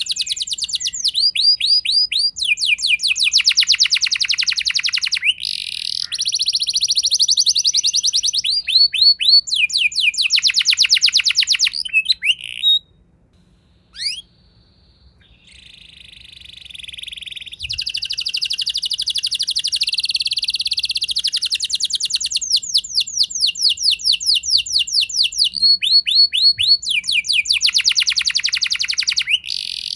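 Domestic canary singing a long rolling song of rapid trills of repeated notes, one trill running straight into the next. The song stops for about four seconds near the middle, then starts up again.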